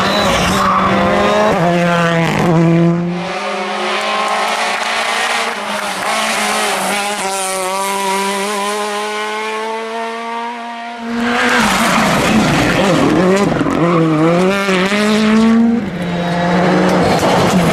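Rally car engines at full throttle: the pitch climbs and drops with gear changes, then a long, thinner, slowly rising pull in one gear. About eleven seconds in, a louder car comes in with rapid rev changes over a hiss of tyre noise.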